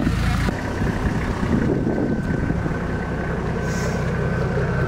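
Four-wheel-drive's engine idling steadily, with a thin steady whine above it. Louder driving noise cuts off about half a second in.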